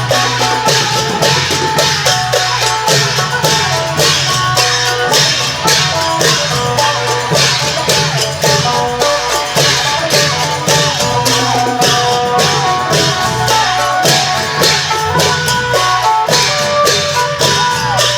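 Isan klong yao procession music: a phin plucks a bending melody over long drums, with cymbals keeping a steady beat.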